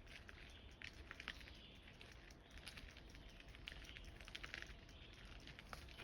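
Faint outdoor ambience with soft, irregular crackles and ticks over a low steady hiss.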